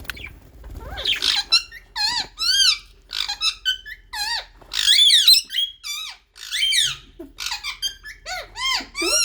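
Budgerigars chirping: a rapid run of short, high chirps that each rise and fall in pitch, several a second.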